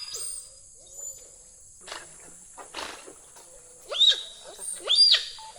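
Giant otters calling, with two loud calls about a second apart near the end that each sweep steeply up and back down, and softer calls before them. A steady high insect drone runs underneath.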